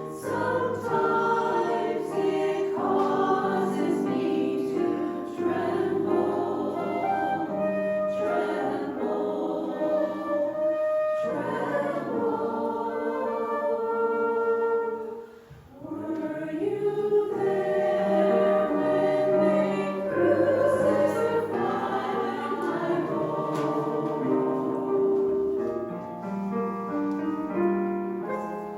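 A choir singing a slow sacred song with instrumental accompaniment, with a brief break between phrases about halfway through.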